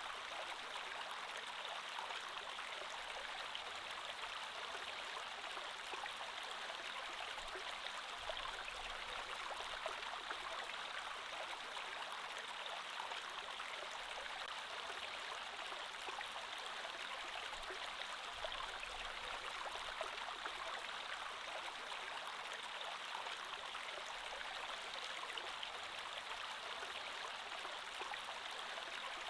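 A shallow creek flowing over stones: a steady splashing, bubbling rush of water.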